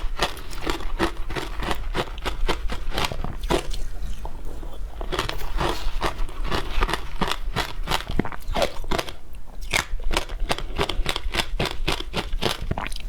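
Close-miked crunching of frozen matcha ice being bitten and chewed: a dense run of sharp, rapid crackles with no pause.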